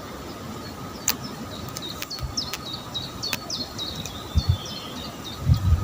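A songbird singing a fast series of short, high chirps from about a second in, lasting several seconds. Loud low thumps come in near the end.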